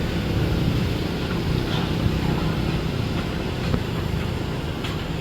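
Steady low rumble of engines running, with a few faint knocks.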